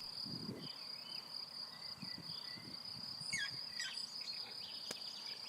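Steady high-pitched chirring of crickets, with a few faint bird calls a little past the middle.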